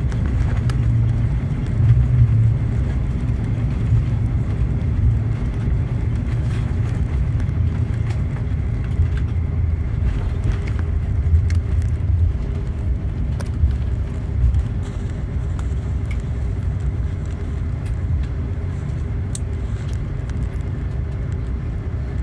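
Steady low rumble inside the cabin of a Boeing 777-200 rolling on the ground after landing, with scattered light clicks and rattles; it eases slightly toward the end.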